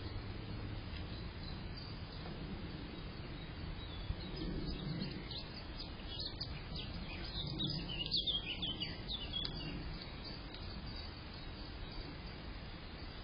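Small birds chirping in short, high calls, bunched in the middle, over a steady background hiss.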